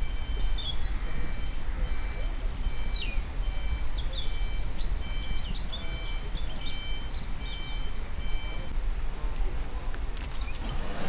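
Small birds chirping with short calls and quick sweeps, over a steady low outdoor rumble.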